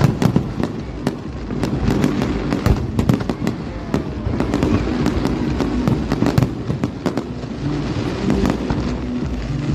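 Aerial fireworks display: shells bursting in a dense, irregular run of sharp bangs and crackles, several a second, over a steady low rumble.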